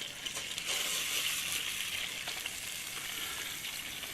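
Lamb roast sizzling in a hot camp oven: a steady hiss that swells slightly about a second in.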